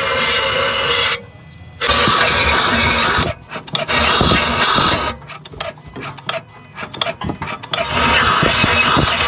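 Loud bursts of rushing, hissing noise, each a second or two long, cutting on and off sharply, with clicks and rattles of metal tools between them.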